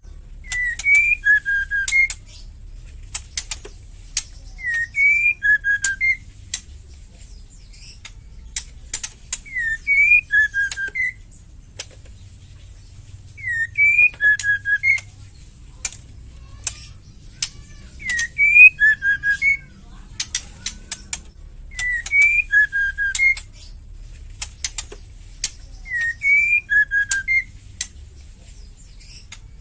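Female white-rumped shama calling: a short whistled phrase, a rising note followed by three or four lower notes, repeated about every four seconds, mixed with sharp clicking rattle calls.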